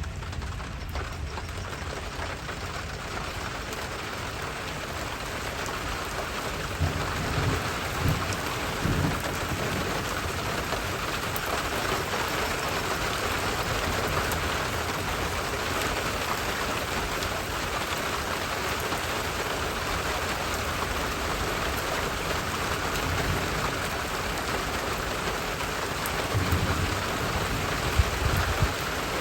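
Steady rain falling, growing slightly heavier over the first dozen seconds. A few brief low thumps come about a quarter of the way in and again near the end.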